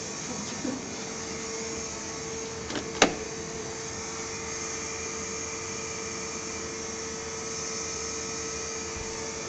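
Electric fuel pumps running steadily with the ignition on and the engine stopped, a constant whining hum, with a sharp click about three seconds in.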